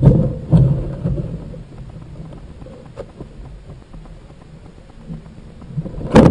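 Low rumbling noise, loud at first and fading over the first second and a half to a faint rumble. There is a sharp click about three seconds in and a loud surge of noise just before the end.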